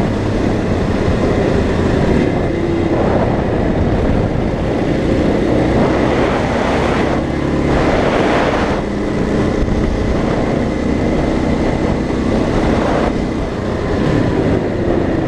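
Dirt bike engine running at road speed through corners, its pitch rising and falling with throttle and gear changes, over steady wind rush.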